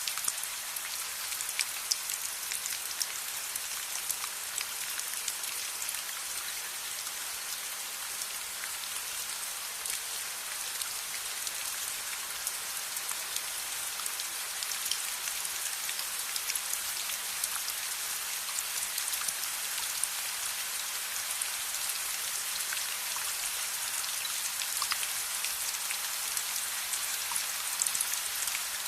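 Steady rain: a dense even hiss with many small, sharp drop ticks scattered through it.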